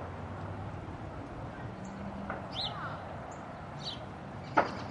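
Birds calling in the background: a few short, falling chirps over steady outdoor ambience, with a brief low hum near the middle and one sharp click near the end.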